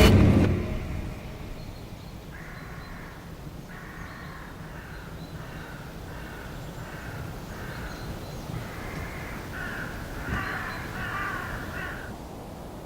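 Crow-like harsh cawing, about a dozen short calls coming one after another. They begin about two seconds in and stop near the end.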